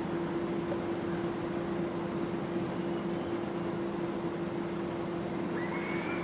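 Steady rushing background noise with a constant low hum. A faint short call that rises and then falls comes near the end.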